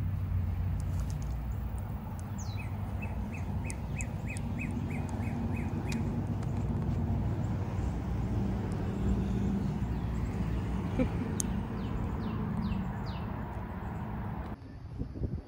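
Small birds calling: a quick run of about ten evenly spaced chirps early on, and a few quick high notes sliding downward near the end, over a steady low rumble.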